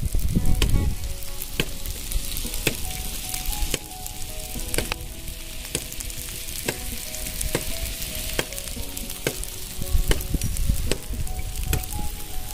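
Marinated chicken and vegetables sizzling on a stone slab heated by a wood fire underneath, a steady hiss with frequent sharp pops and crackles.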